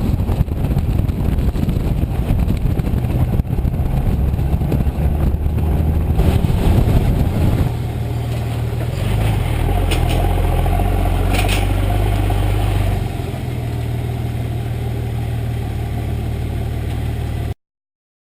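Nissan Patrol's 4.2-litre TD42 straight-six diesel running through a 3-inch mandrel-bent exhaust with a vortex muffler and rear resonator. It is rough and noisy for the first several seconds, then settles to a steadier, even exhaust note about eight seconds in, and cuts off abruptly near the end.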